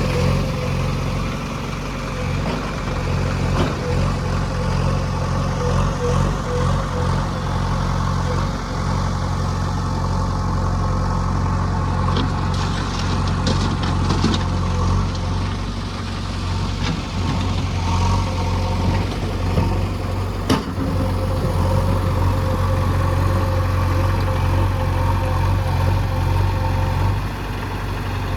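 Heavy diesel machinery engine running steadily, with a few sharp metallic knocks; the loudest knock comes about twenty seconds in.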